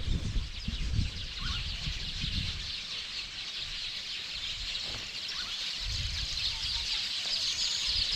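Dense, continuous chorus of many small birds chattering and calling together, a mix of species including weaver birds. Low rumbling on the microphone near the start and again after the middle.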